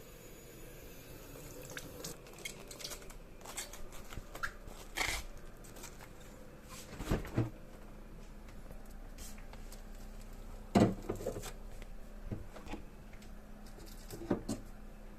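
Irregular clicks and knocks of kitchen utensils and dishes being handled during food preparation, with two louder knocks about seven and eleven seconds in.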